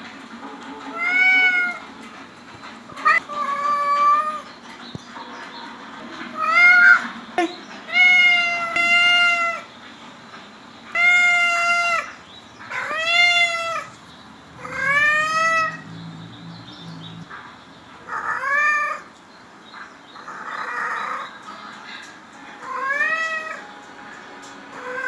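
A cat meowing over and over, about a dozen separate drawn-out meows each rising and falling in pitch, with short gaps between them.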